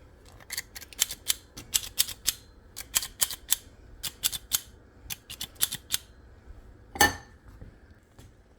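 Spoons clicking and tapping lightly, often in quick pairs, as spoonfuls of dumpling dough are scraped off into a pot of boiling stew; one louder clank about seven seconds in.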